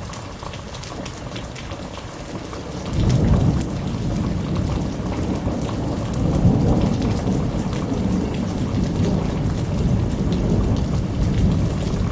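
Heavy monsoon rain pouring down steadily, with a long roll of thunder that comes in about three seconds in and keeps rumbling.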